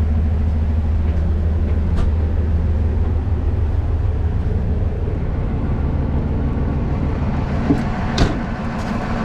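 Diesel engine of a TU7A narrow-gauge locomotive running steadily with a low drone, which eases a little about halfway. A light click comes about two seconds in, and a sharp knock near the end.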